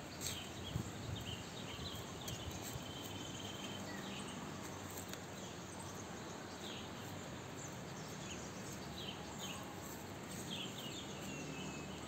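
Outdoor ambience: a steady background hiss with scattered short bird chirps and one brief trill, and a couple of soft low thumps near the start.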